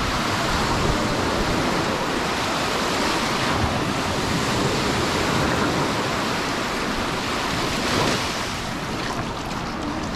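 Sea surf washing onto the beach, a steady rushing with slow swells, mixed with wind buffeting the microphone.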